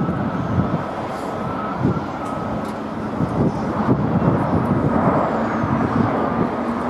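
Jet airliner engines rumbling as the aircraft moves along the runway, with a faint steady whine over the rumble.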